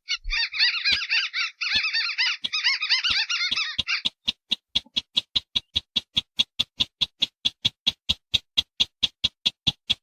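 Recorded crake calls used as a bird lure: a dense chattering of warbled notes for about four seconds, then a steady run of short, sharp repeated notes, about five a second.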